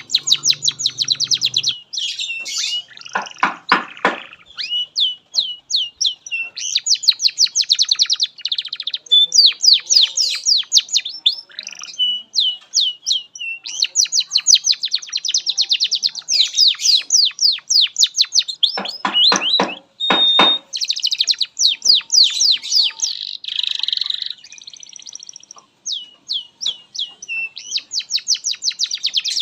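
Domestic canary singing a long, continuous song of fast trills and rapid chirping rolls, with a few deep rolling trills mixed in.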